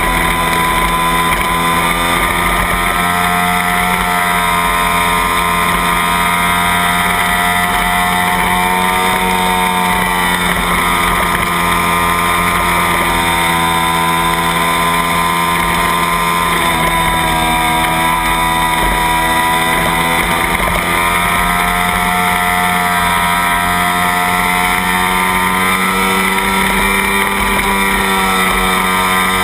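Kawasaki Ninja parallel-twin race bike engine revving hard, heard from on the bike with wind noise. Its pitch climbs as it accelerates and drops several times as it slows for corners.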